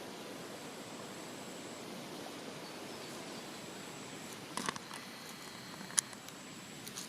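Steady outdoor background noise with a faint high-pitched steady whine. A few short sharp clicks come a little past halfway, and one louder click comes about six seconds in.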